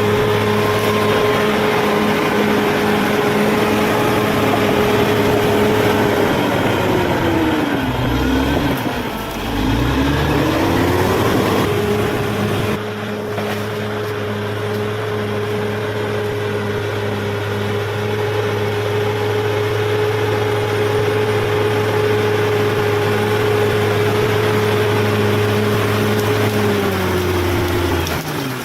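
Bulldozer's diesel engine running hard and steady. Its pitch sags about seven seconds in and climbs back a few seconds later, then it holds steady until the revs drop near the end.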